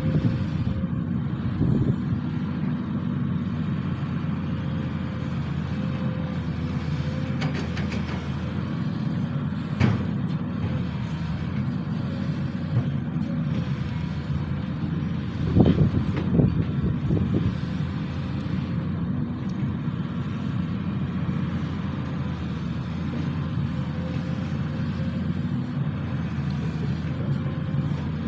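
SANY SY215C excavator's diesel engine running steadily under load, with a thin steady whine over the drone. A few sharp knocks, the loudest about two-thirds of the way through.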